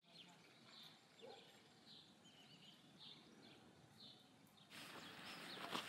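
Faint birdsong in a quiet outdoor ambience: short high chirps repeating every half second or so. About three-quarters of the way through, the background hiss suddenly gets louder, and a sharp click comes near the end.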